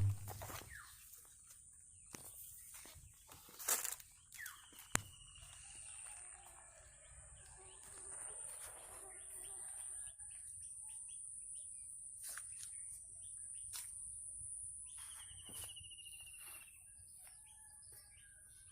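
Rural outdoor ambience: small birds chirp, with two descending trilled calls, about four seconds in and again near the end. A rooster crows faintly in the middle. A few sharp knocks come in the first five seconds.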